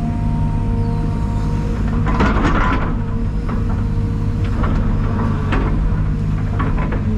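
Heavy diesel engine running steadily, with several short noisy bursts over it, the longest about two seconds in.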